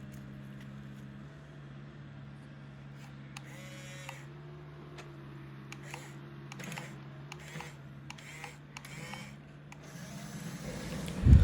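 Toy remote-control excavator's small electric motors running with a steady low hum, with scattered light clicks and short whirring wobbles as it works; the hum fades out near the end.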